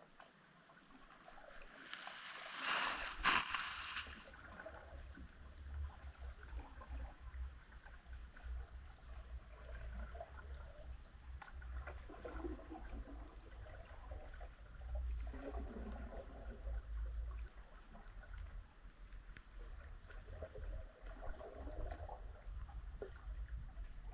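Underwater sound picked up by a camera submerged deep in a lake. A burst of noise with a sharp knock comes about three seconds in, then a low steady rumble and scattered faint gurgling noises.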